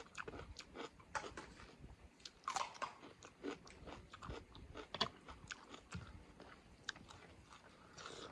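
A person eating close to the microphone: chewing and biting with irregular crunches and wet mouth clicks, from a meal of chicken curry with rice.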